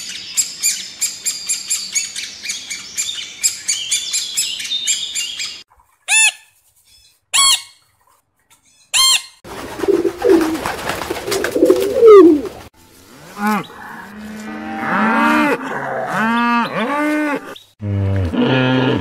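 Great spotted woodpecker nestlings' rapid high begging chatter, then three single sharp bird calls. About ten seconds in, pigeons cooing. From about fourteen seconds, a hippopotamus gives a series of deep honking grunts.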